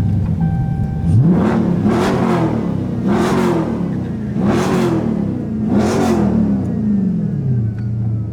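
Dodge Scat Pack's 392 Hemi V8 (6.4-litre) idling, then revved four times in quick blips, each rising and falling in pitch, and settling back to idle near the end.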